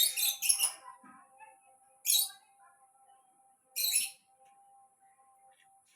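Pet birds giving short, harsh squawking calls: two in quick succession at the start, another about two seconds in, and a slightly longer one about four seconds in.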